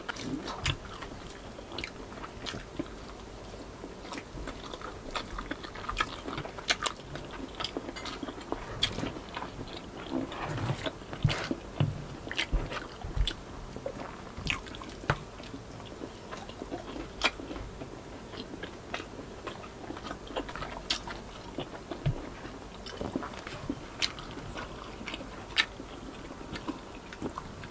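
Close-up eating sounds: chewing and biting into braised pork hock and crispy deep-fried pork belly, with many short, irregular crunches and clicks.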